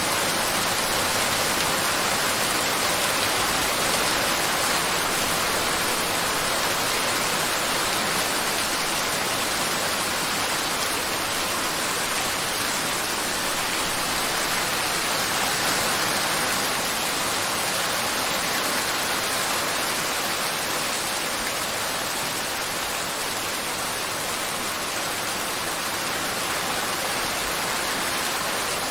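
Steady rainfall: an even, continuous hiss of rain with no breaks or distinct drops standing out.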